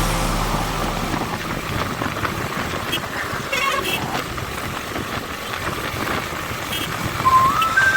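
Road noise of a motorcycle ride through traffic: a steady rush of engine, tyre and wind noise, with the music coming back in on a rising tone near the end.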